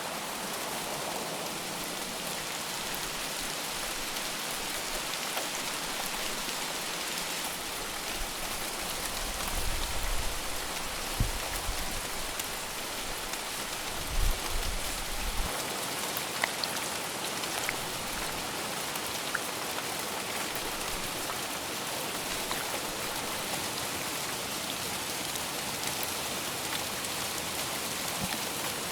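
Heavy rain falling steadily, with drops hitting surfaces. In the middle there are a few seconds of low rumbling with several dull thumps.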